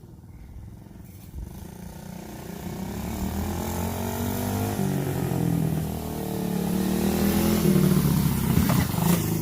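Small dirt bike engine running, its pitch rising and falling with the throttle. It grows louder as the bike comes closer and is loudest near the end.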